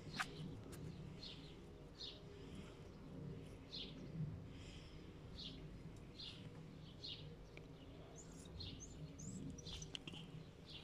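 A small bird chirping over and over, short high chirps coming roughly every half second to a second, over a faint low steady hum. There is one sharp click just after the start.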